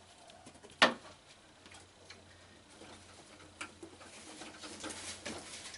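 Handling noise: one sharp knock about a second in, then scattered light clicks and a soft rustle that builds near the end, as the animatronic's fabric costume is worked on.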